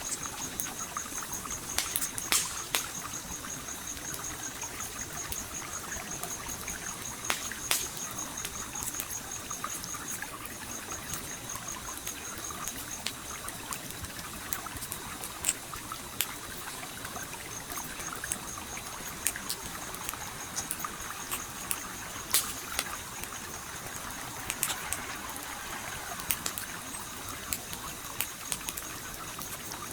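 A stream flowing steadily under the sharp, irregular pops and snaps of a crackling campfire. A high, fast-pulsing trill runs alongside and drops out for several seconds in the middle.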